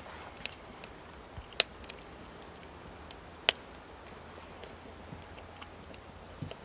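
A few irregular sharp clicks and knocks, the two loudest about a second and a half and three and a half seconds in, over a faint steady background.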